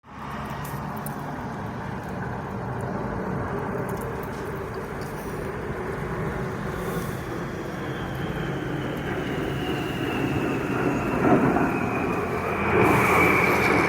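Jet aircraft flying overhead: a steady rumble with a thin high whine that slowly falls in pitch, growing louder near the end.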